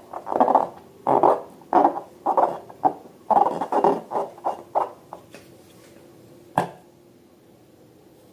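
Slime being squeezed and kneaded by hand, wet squelching in short bursts about twice a second that die away about five seconds in, followed by a single sharp click.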